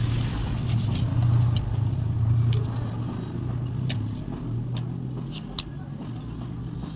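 A motor or engine running with a steady low hum that fades a little after the first few seconds, with a few faint light clicks and one sharper tick near the end.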